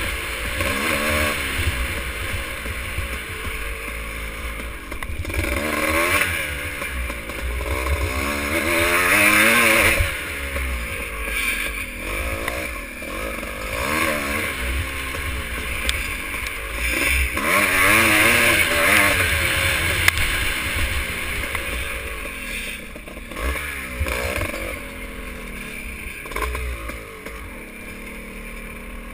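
Motocross motorcycle engines revving up and down over and over, as in racing, louder about a third of the way in and again past the middle.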